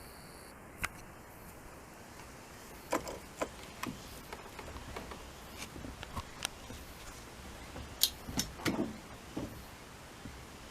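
Irregular small clicks and light knocks from handling small parts by hand, with the busiest and loudest cluster of clicks near the end.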